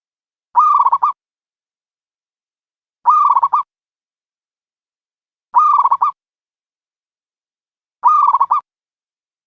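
A recorded dove call looped as a trapping lure: four identical short calls, each about half a second long, coming at an even pace about two and a half seconds apart.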